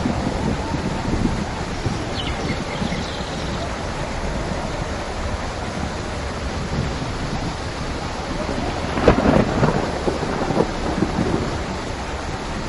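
Steady rain with rolling thunder; a louder crackling peal of thunder comes about nine seconds in.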